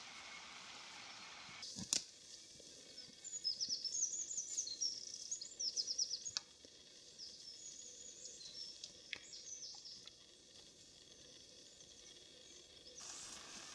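Birds singing outdoors: series of quick, high chirping notes over a faint steady hiss, with a single sharp click just under two seconds in.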